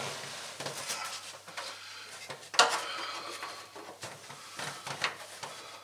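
Metal tools and car parts clinking and knocking at irregular intervals as someone works by hand in a cramped spot, with the loudest metallic knock about two and a half seconds in.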